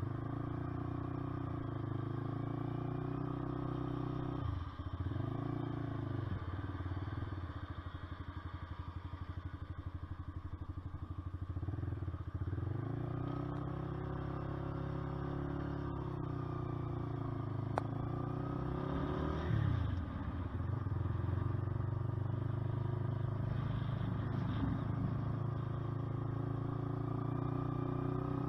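Honda CBR125R's single-cylinder four-stroke engine and exhaust running under way. The engine note dips sharply about five and twenty seconds in, and runs slower and pulsing for several seconds before building again.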